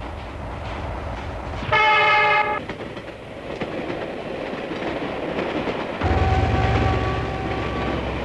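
Passing train running with a steady rumble, broken about two seconds in by a short, loud horn blast of under a second. Near the end a heavier low rumble sets in, with a fainter steady tone over it.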